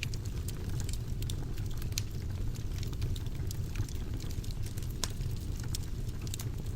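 Wood fire burning in a fireplace: a steady low rumble of flames with frequent irregular crackles and pops from the burning wood, a few sharper pops standing out.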